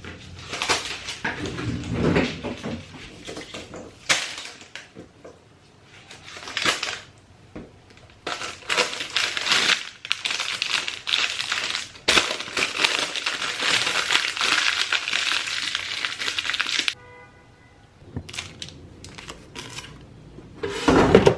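Kitchen handling noise: repeated bursts of crinkling, crushing and rustling, with a longer stretch of it past the middle, then a short steady tone near the end.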